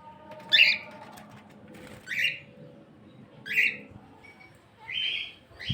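A bird calling outdoors: four short, harsh calls spaced about a second and a half apart.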